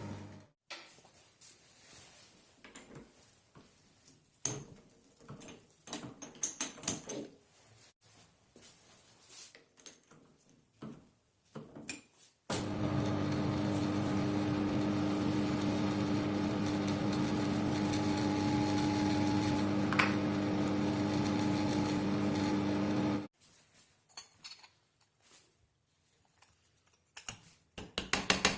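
Scattered knocks and handling clicks of metal parts, then a small electric motor-driven tool runs with a steady hum for about ten seconds and stops. Rapid clicking starts near the end.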